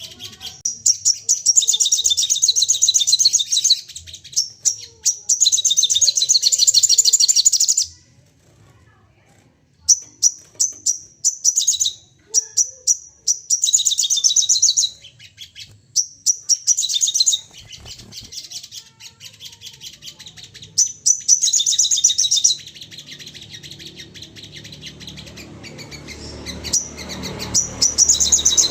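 Sogon birds calling in fast, high-pitched chattering trills, in repeated bursts of rapid notes with a pause of about two seconds about a third of the way in. A low rumble rises under the calls near the end.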